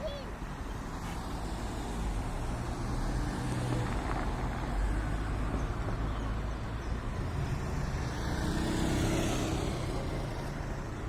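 Road traffic passing: a steady low rumble of cars, swelling as vehicles go by about three to five seconds in and again near nine seconds.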